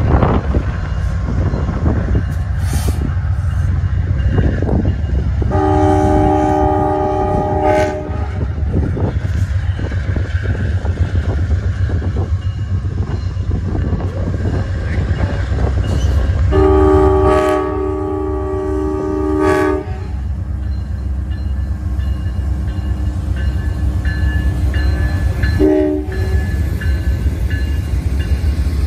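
Amtrak GE P42DC diesel locomotives passing close by with a steady low rumble of engines and wheels on the rails. The multi-note air horn sounds two long blasts, then a short one near the end: the opening of the long-long-short-long grade-crossing signal.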